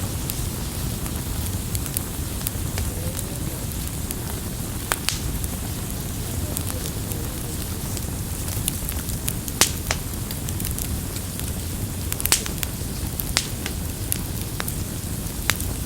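Campfire burning: a steady low rumble of flames under scattered sharp crackles and pops, a few of them louder than the rest.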